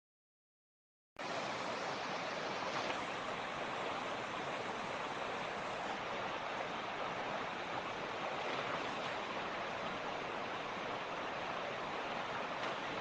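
Mountain creek rushing over rocks in a steady, even wash of water noise. It comes in abruptly after about a second of dead silence at the start, a dropout in the recording.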